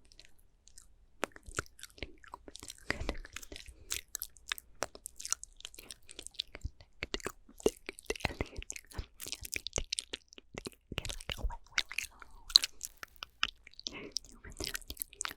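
ASMR mouth sounds close to the microphone: a dense, irregular run of wet clicks and pops from lips and tongue, starting about a second in.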